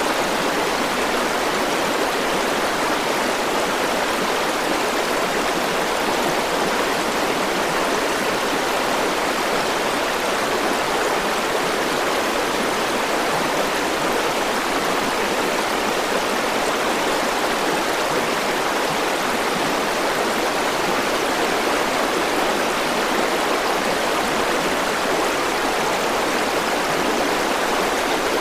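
River water flowing steadily over rocks, a constant rushing with no breaks or changes.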